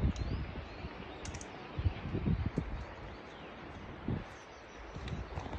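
Outdoor ambience: faint bird chirps over a low rumbling noise broken by several dull thuds.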